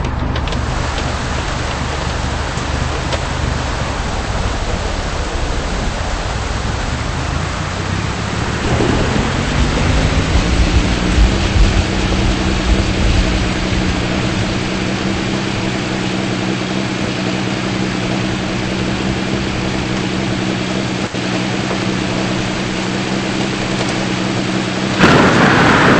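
Steady rain with a vehicle engine running underneath. About nine seconds in, the engine's pitch rises and then holds steady, as when a car speeds up and cruises. Near the end a sudden, louder rush of noise cuts in.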